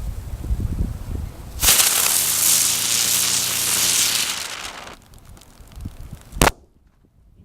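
Ground bloom firework lit and spinning, giving a loud hiss that starts suddenly about two seconds in, lasts about three seconds and then fades. A single sharp crack follows about six and a half seconds in.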